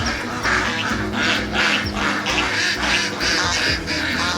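A duck quacking rapidly and repeatedly, about three quacks a second.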